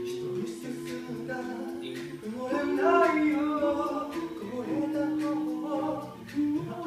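An a cappella group singing in close harmony: sustained vocal chords over a sung bass line, with sharp vocal-percussion hits every half second to a second.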